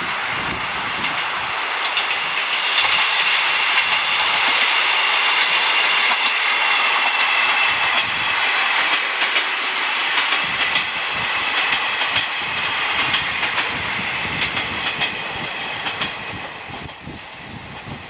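A train passing along the line, its wheels clicking over the rail joints over a steady high whine, the sound dying away near the end.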